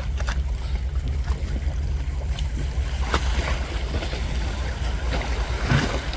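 Wind buffeting the microphone as a steady low rumble, over the wash of sea waves against the breakwater rocks.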